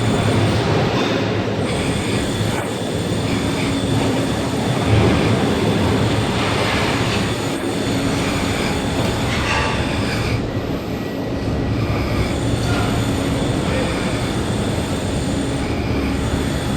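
Passenger train running through the station, a steady loud noise of wheels on rails.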